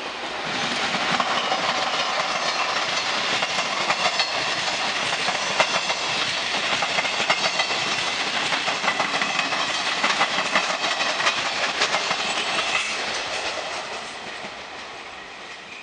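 Trenitalia regional passenger train passing close by: a steady rush of wheels on rails with many quick clicks over the rail joints. It fades away over the last few seconds.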